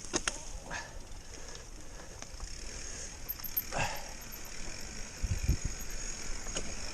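Mountain bike rolling over a trail, with scattered rattling clicks from the bike and a couple of low thumps about five seconds in.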